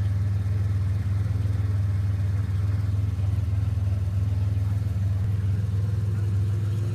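1995 Pontiac Firebird's 3.4-litre V6 engine idling steadily.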